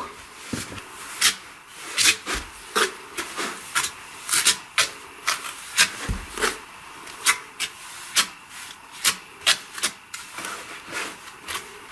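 Steel spatula scraping mortar onto an aerated concrete block in a string of short, irregular strokes.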